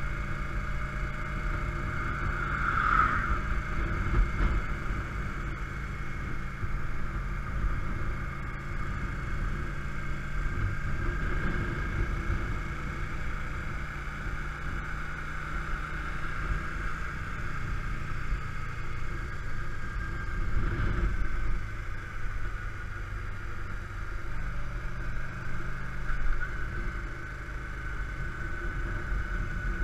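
Yamaha Drag Star V-twin motorcycle engine running steadily at cruising speed, its pitch dropping a little about three-quarters of the way through.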